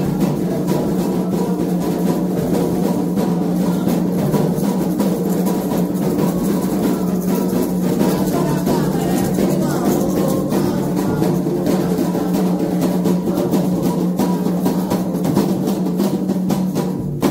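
Candomblé atabaque drumming: a dense, fast, steady rhythm of hand and stick drum strokes that cuts off suddenly at the end.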